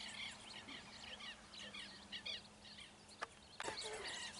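Birds chirping in quick, repeated short calls, with a sharp click about three seconds in and another just after.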